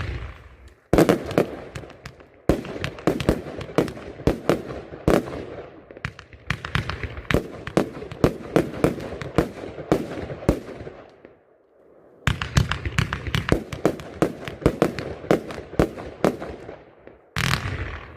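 Mystic Zone firework compound (cake) firing: volleys of rapid, irregular bangs and crackles. There is a brief lull near the middle and another just before a loud burst near the end.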